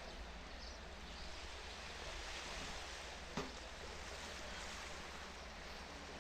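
Steady seafront ambience: an even hiss of surf and wind, with one short knock a little past halfway.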